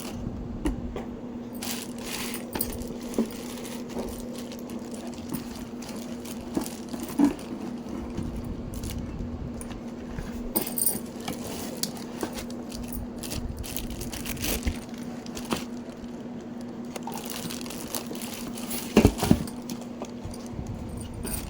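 Unboxing handling noise: plastic wrapping crinkling, packaging rustling, and scattered clicks and knocks as mixer-grinder jars and parts are lifted out of the box. The loudest knocks come about seven seconds in and near the end, over a steady low hum.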